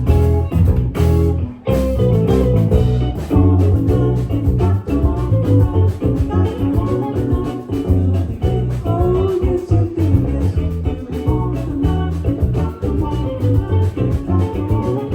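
Live rock band playing loud, with electric guitar, bass and drums on a steady beat.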